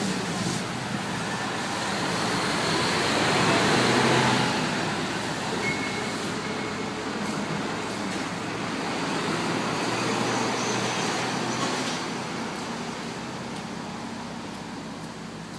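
Motor vehicle and traffic noise with a low engine hum; it swells to its loudest about four seconds in, then slowly fades.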